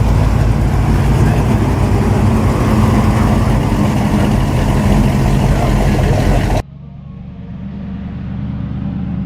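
A car engine running loud and low, with a steady pitch. About six and a half seconds in it cuts off abruptly to a quieter, duller engine sound that slowly grows louder.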